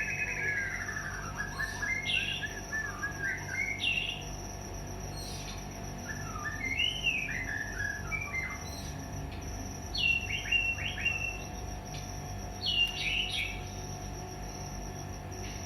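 White-rumped shama (murai batu) singing in short bursts of varied, gliding whistled phrases with pauses between them, over a steady high-pitched tone.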